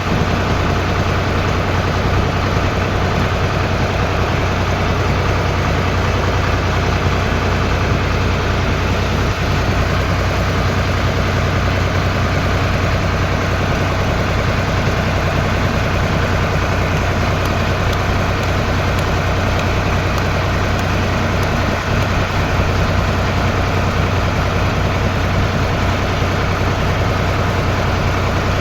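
Tractor engine running steadily with a deep, even hum, close and loud, with no change in pace.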